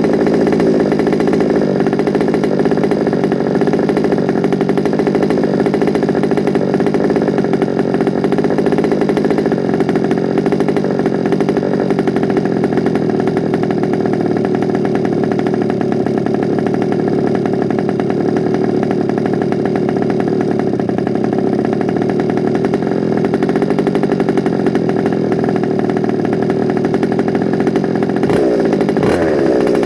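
Small two-stroke petrol engine of a large-scale FG Sportsline RC car running steadily on its first start-up, with a high buzzing note. Near the end the pitch briefly dips and climbs back.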